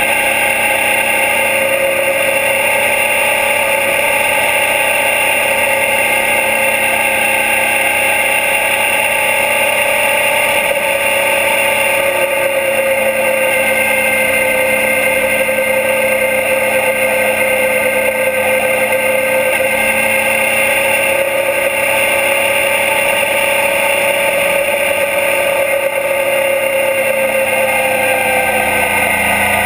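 2012 Suzuki DL650 V-Strom's 645 cc V-twin engine running at a steady cruise, heard close to the engine over a steady rush of wind and road noise; near the end the engine note drops as the bike slows.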